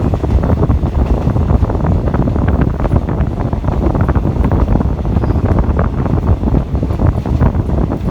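Wind buffeting the microphone from riding in an open, moving vehicle: a loud, continuous low rush with constant rapid flutter.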